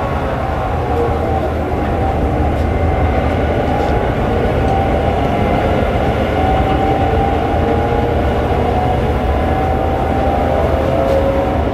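GM-EMD two-stroke diesel locomotive engine running steadily under power, a deep drone with a whine above it that wavers slightly in pitch.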